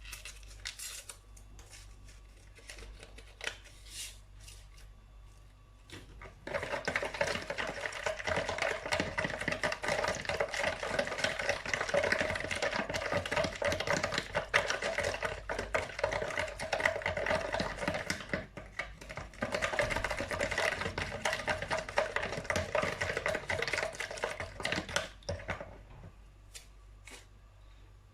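Egg, sugar, oil and milk batter being whisked in a bowl: a rapid, dense clicking of the whisk against the bowl. It starts about six seconds in and stops about three seconds before the end.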